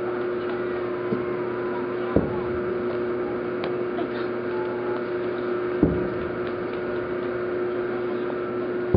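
Distant aerial fireworks shells bursting as a few dull booms: a small one about a second in, stronger ones about two seconds in and near six seconds, and another at the end. Under them runs a steady hum with one constant tone.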